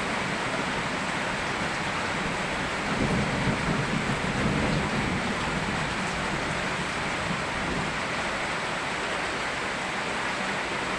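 Steady rain falling, an even hiss, with a low rumble swelling briefly a few seconds in.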